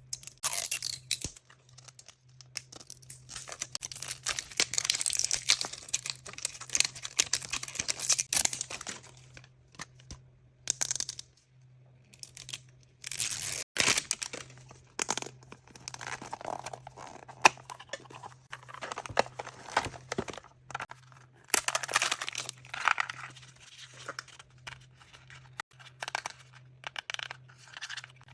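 Plastic and paper wrapping of mystery surprise toys being torn open and crinkled by hand, in long irregular rustling and crackling stretches with short pauses and a few sharp clicks.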